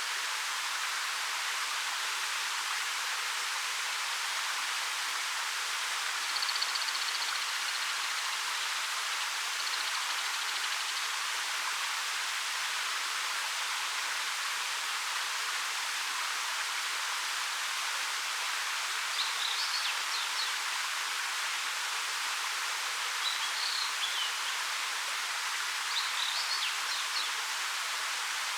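Waterfall of about 13 m falling over rock: a steady, unbroken rushing hiss of falling water. A few faint, brief high chirps come through it now and then.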